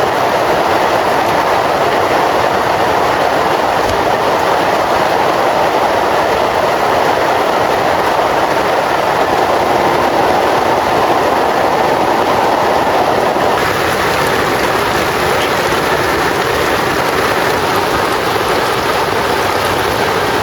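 Heavy rain falling steadily, a dense even hiss; its tone shifts slightly about two-thirds of the way through.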